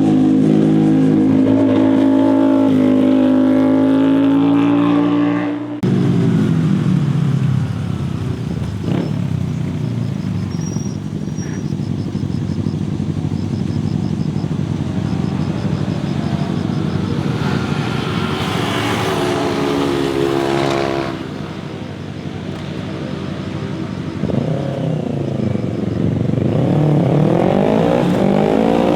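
Motorcycles riding past one after another, their engines revving up and down through the corners. A loud one stops abruptly about six seconds in, another passes about eighteen seconds in, and a third climbs in pitch near the end.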